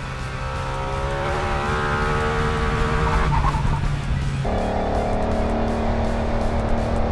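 A motorcycle engine accelerating, rising in pitch between about one and three seconds in, over background music.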